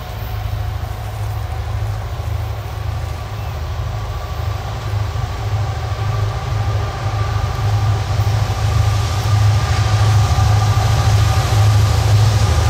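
Diesel freight train rumbling as it approaches, growing steadily louder, with a faint steady whine above the deep engine rumble.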